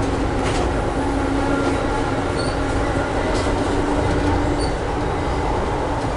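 Steady rumble of an Amtrak passenger coach running along the track, heard from inside the car: wheels on rail with a faint steady hum and a few light clicks.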